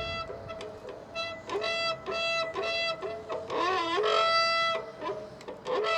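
Front Shimano GRX 810 disc brake on a gravel bike squealing in a series of short, high, steady-pitched squeals, one wavering in pitch about halfway through. It howls as the brake bites, a sign of oil contamination on the pads or rotor.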